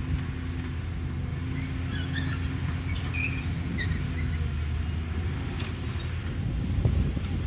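Caterpillar excavator's diesel engine running steadily, with short high squeaks about two to four seconds in and a knock near the end.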